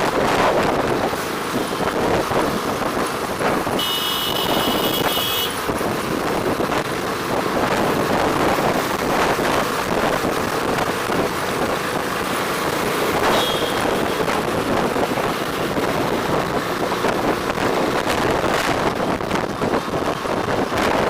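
Road traffic and steady wind rush on the microphone from a moving bike, with a high-pitched vehicle horn sounding for about a second and a half some four seconds in and a short toot about halfway through.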